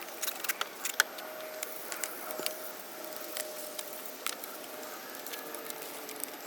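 Scattered light clicks and taps, irregular and the sharpest about a second in, over a steady hiss.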